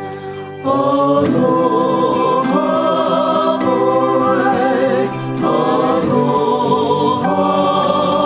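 Background music: voices singing a slow song in Hawaiian in choir-like harmony, with long held notes and vibrato; the phrase shifts every second or two, after a brief lull near the start.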